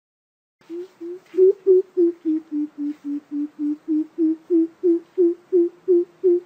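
Greater coucal calling: a steady series of deep, even hoots, about three or four a second, starting about half a second in and growing louder after the first two notes. It is the kind of call recording played to lure coucals into a trap.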